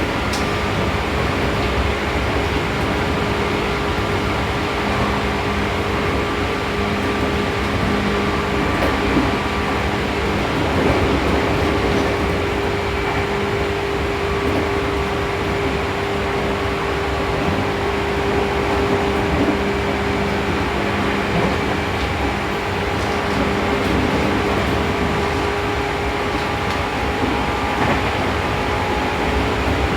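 Seibu New 2000 series electric train running at steady speed, heard from inside the car: continuous rumble of wheels on rail with a steady motor hum.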